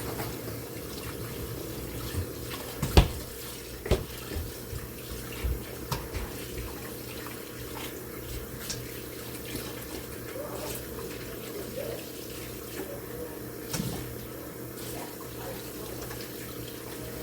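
Kitchen tap running steadily into a sink while food is rinsed by hand, with a few sharp knocks of pots or utensils, the loudest about three seconds in.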